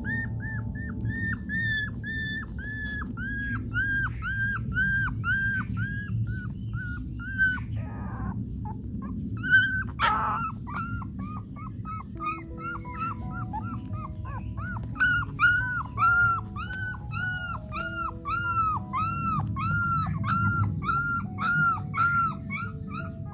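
Newborn puppies whimpering: a steady run of short, high, rising-and-falling cries, about two or three a second.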